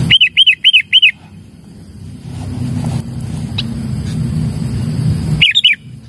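Sooty-headed bulbul calls: four quick, loud arched chirps in the first second, then a short burst of three or four more near the end.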